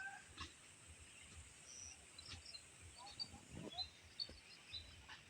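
Faint birds chirping: short, scattered high calls over a light background hiss of open country.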